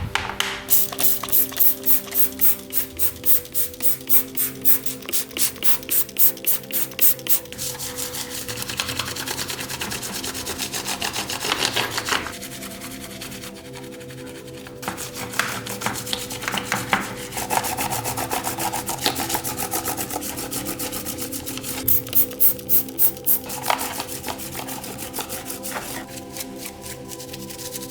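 Repeated abrasive rubbing strokes, about two or three a second, in two bursts with steadier scraping between, over steady background music.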